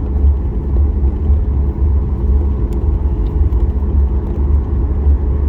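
Steady low rumble inside the cabin of a Boeing 737 MAX 8 taxiing on the ground, from its CFM LEAP-1B engines near idle and the aircraft rolling along the taxiway, with a few faint steady tones above the rumble.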